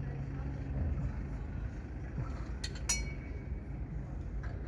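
Two sharp metallic clinks in quick succession a little under three seconds in, a metal tool knocking against metal, over a low steady hum.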